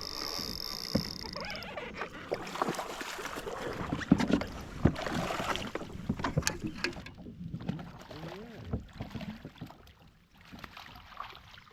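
Water splashing and sloshing with scattered sharp knocks and clicks as a hooked fish is fought and brought in, busiest in the first half and quieter after about seven seconds.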